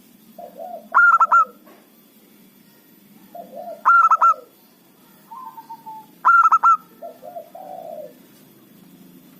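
Zebra dove (perkutut) singing three song phrases, each a low cooing lead-in followed by a quick run of about four higher, ringing notes, with the phrases coming about every three seconds.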